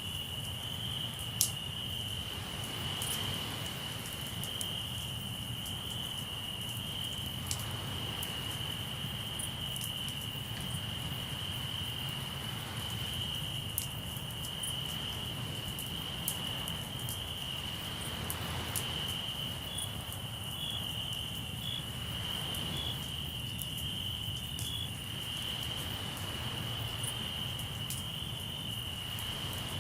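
Crickets trilling steadily in a constant high chirr, with scattered sharp crackles of a campfire and a soft wash of sea waves swelling every few seconds.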